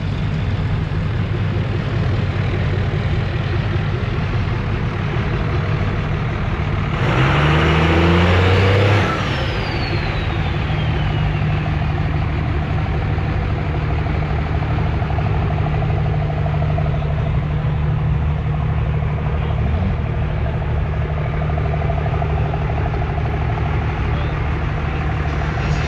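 A vehicle engine idling steadily, revved once for about two seconds around seven seconds in, followed by a high whistle that falls in pitch over a few seconds as it settles back to idle.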